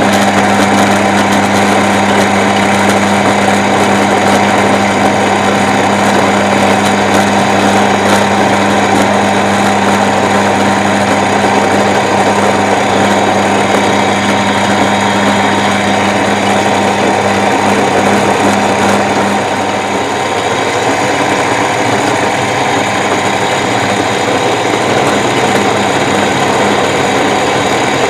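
Milling machine running with its cutter milling a small workpiece held in a vise: a loud, steady machine noise with a strong low hum. About twenty seconds in, the hum fades and the sound drops a little.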